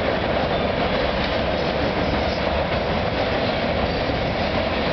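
Freight train's tank cars rolling past on a bridge: a steady rumble of steel wheels on the rails.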